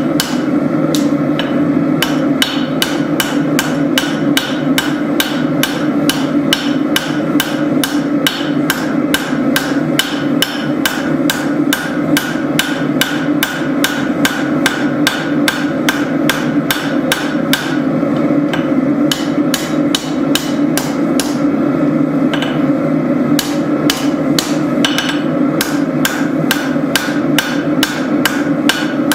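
Forging hammer beating hot spring steel on an anvil in an even run of strikes, about two to three a second, working the tang of a tanto blade back into line. A steady drone runs underneath.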